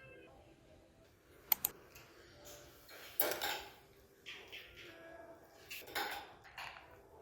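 Kitchenware knocking and clinking: two sharp clicks about a second and a half in, a louder clatter around three seconds, then several more knocks near the end.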